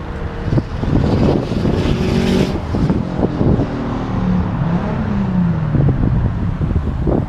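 A loud car engine and exhaust revving as the car accelerates past. About halfway through, its note falls steadily in pitch.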